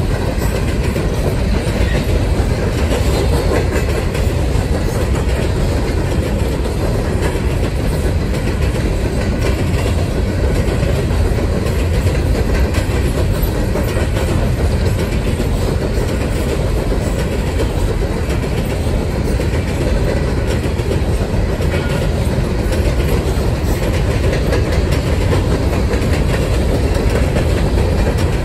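Empty coal hopper cars of a freight train rolling past, a loud steady rumble with repeated clicks of the wheels over the rail.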